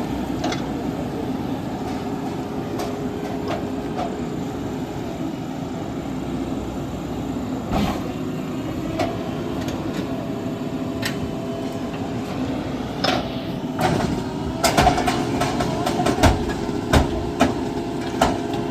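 Diesel engine of a JCB 3DX Super backhoe loader running steadily, with a series of sharp knocks and clanks over the last few seconds.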